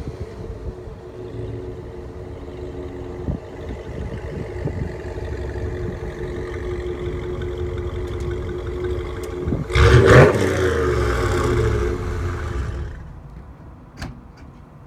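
2017 Ram's 5.7-litre Hemi V8 running through a Corsa exhaust, building gradually and then revving hard about ten seconds in, before dropping back near the end. A single sharp click follows shortly after.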